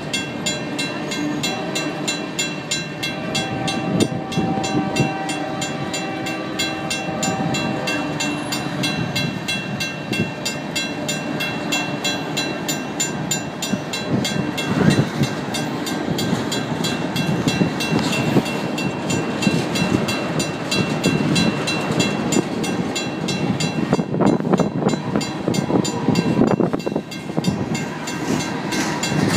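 Empty freight cars, mostly tank cars, rolling past with a steady rumble and clatter of wheels on rail. Over it, the crossing signal's WCH mechanical bell rings on and on in rapid, even strikes.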